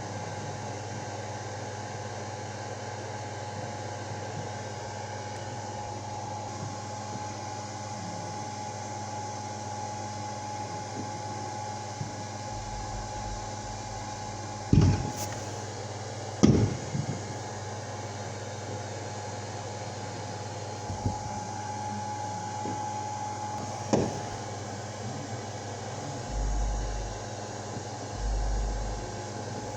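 Sharp bangs of fireworks going off: two about a second and a half apart near the middle, then a third some eight seconds later. Under them runs a steady hum with a constant tone, and a few low rumbling bumps come near the end.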